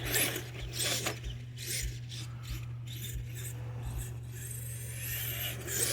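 Redcat Everest 10 electric RC mega truck driving through snow: scraping, crunching noise of the tyres churning, over a steady low hum, with a thin rising whine near the end as the motor speeds up.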